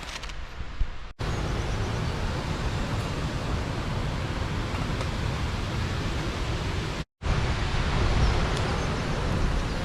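Steady rushing of river water pouring over a small dam, a dense even noise heavy in the low end. It cuts out briefly a little after one second and again a little after seven seconds.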